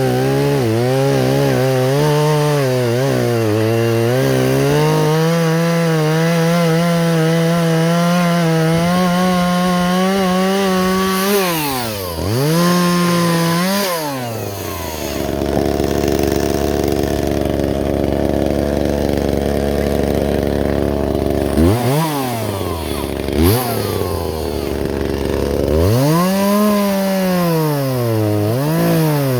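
Two-stroke chainsaw held at high revs for about eleven seconds, dipping sharply twice and then settling to a lower steady speed. It is then blipped twice and revved up and down repeatedly near the end.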